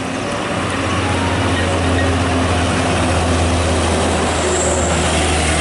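Heavy road traffic passing close by: a steady low engine rumble with tyre and road noise, getting a little louder about a second or two in.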